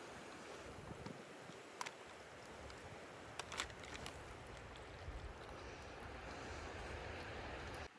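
Steady outdoor rushing noise with a few light clicks a couple of seconds in and again in the middle; it cuts off abruptly near the end.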